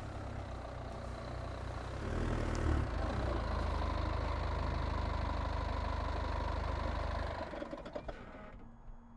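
A car engine idling with a steady low hum, growing louder about two seconds in, then stopping about seven and a half seconds in as it is switched off.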